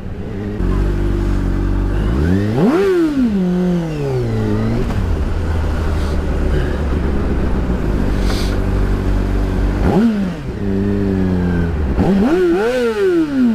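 Motorcycle engine running in traffic, its revs climbing sharply about two seconds in and then falling away, running steadily for a while, then revving up and down twice more near the end.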